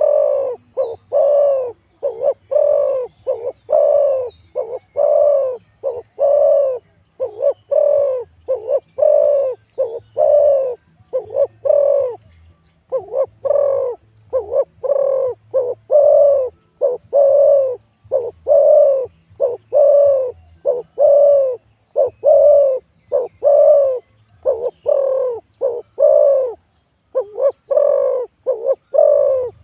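Spotted doves cooing: a long, unbroken run of short, low coos, one to two a second in small groups.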